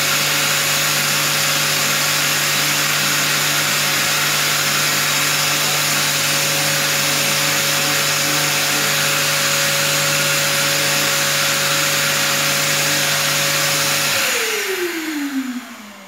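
Orbital sander fitted with a 240-grit disc running steadily on plastic trim strips, with a strong hiss over a steady motor tone. Near the end it is switched off and its pitch falls as it spins down.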